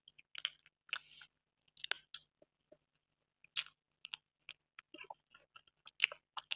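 Close-miked mouth sounds of a person chewing a mouthful of soft cream cake: irregular wet smacks and small clicks, a few of them louder.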